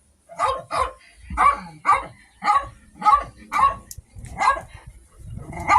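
A dog barking repeatedly, about nine short barks at roughly two a second.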